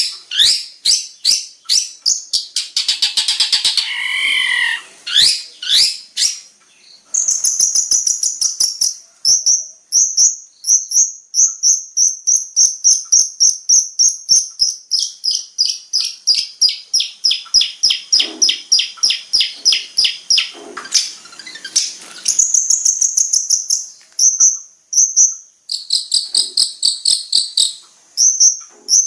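Long-tailed shrike (cendet) song of the kind packed with mimicked 'isian' calls: fast strings of sharp high chirps, about three or four a second, with cricket-like trills. In the middle comes a long run of notes that step steadily down in pitch.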